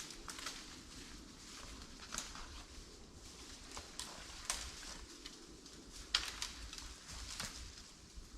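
Irregular sharp clicks and snaps, about one or two a second, over a low steady hiss.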